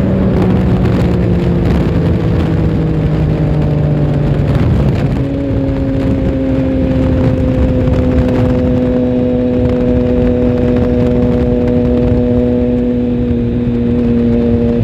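Triumph Tiger Sport 1050's inline three-cylinder engine heard from onboard the motorcycle over wind rush. The engine note falls steadily for about five seconds as the bike slows, steps up in pitch, then holds nearly steady, sinking only slightly.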